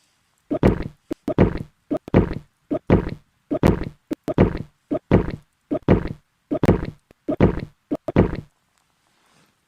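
A steady run of about a dozen heavy knocks, one roughly every three-quarters of a second, most with a lighter tap just before, stopping about eight and a half seconds in.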